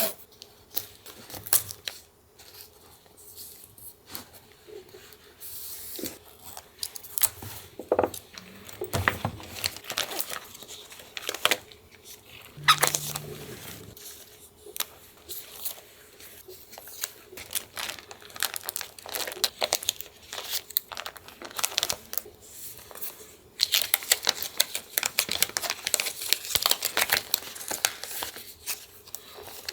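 Paper being handled close to the microphone for collage, torn and crinkled in irregular scratchy strokes, with a dense stretch of rapid crackling near the end.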